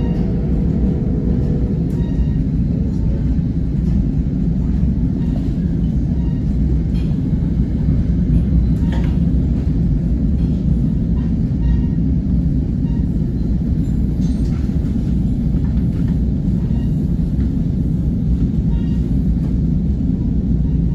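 Steady low rumble of a passenger coach rolling along the rails, heard from inside the car. A held pitched tone ends about two seconds in.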